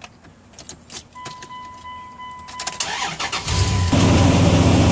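A few clicks and a steady electronic warning beep from the pickup's dash. Then the starter cranks and the engine catches about three and a half seconds in and keeps running steadily. It starts now that the corroded battery terminals and clamps have been cleaned.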